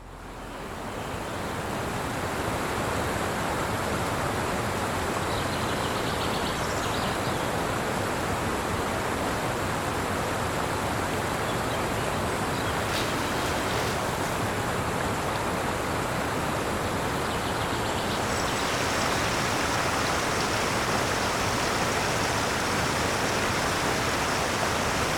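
Steady rush of flowing river water, an even hiss with no rhythm, fading in over the first couple of seconds.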